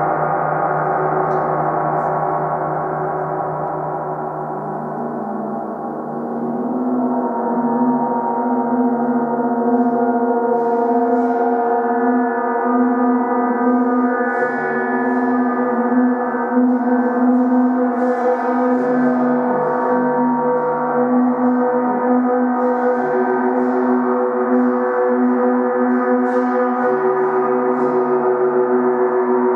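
A 30-inch (75 cm) Earth Element symphonic gong rings with a long sustain and many overlapping overtones. It dips slightly a few seconds in, then swells again as it is kept sounding, with the pitches shifting.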